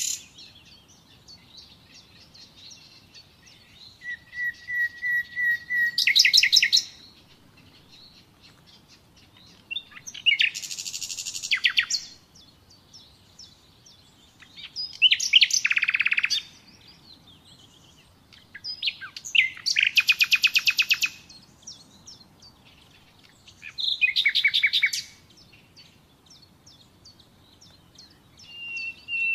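Common nightingale singing in separate phrases a few seconds apart. Each phrase is a burst of fast, loud trills and whistles, one opening with a run of repeated notes that swells in loudness.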